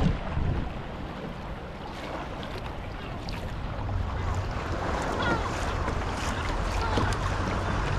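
Seawater lapping and trickling against a kayak hull, with wind rumbling on the microphone, the wind picking up about halfway through.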